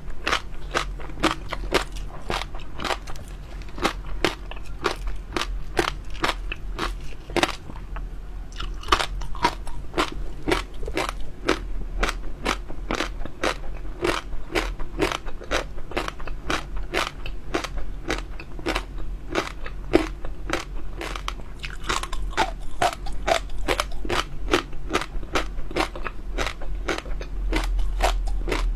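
Close-up chewing of chewy jelly 'popping pearls' with bits of water chestnut inside, a steady run of sharp crunches and crackles, several a second, as the pearls burst between the teeth.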